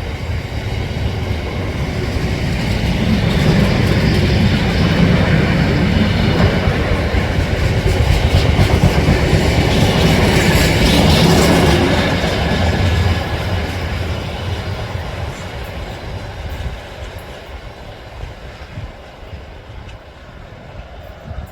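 A train passing by on the rails, growing louder to a peak about halfway through and then fading away.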